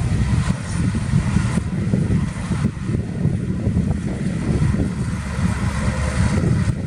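Heavy diesel engine of earthmoving machinery running steadily, its sound deep and rough.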